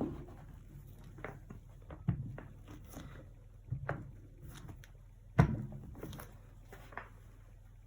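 Acrylic painting tools being handled and set down: a string of light, irregular knocks and taps, the loudest about five and a half seconds in, over a low steady hum.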